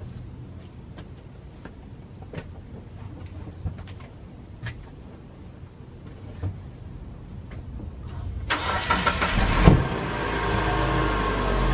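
A compact SUV's engine running low and steady as the car backs out of a driveway and pulls away, with a few light clicks. About eight and a half seconds in, a much louder, fuller sound with steady tones cuts in suddenly and holds.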